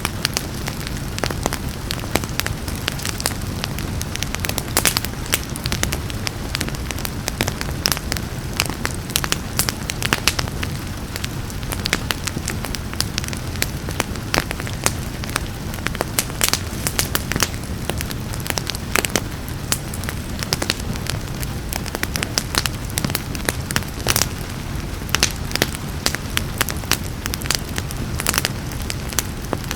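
Wood fire crackling, with frequent sharp pops and snaps over a steady low rumble of burning, blended with the even hiss of rain.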